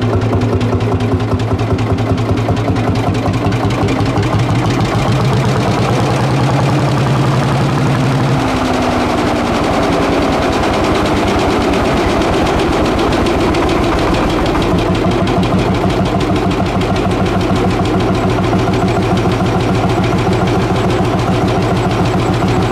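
1956 Lanz tractor engine running with a steady, even beat of firing strokes. About eight seconds in, its note changes as the engine speed shifts, then it runs on evenly.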